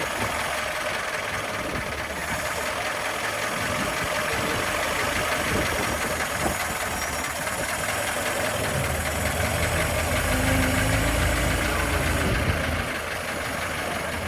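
The 1913 Leyland S3 double-decker bus's 4-cylinder 5.2-litre petrol engine running steadily. From about nine seconds in it grows louder and deeper for a few seconds, then eases back.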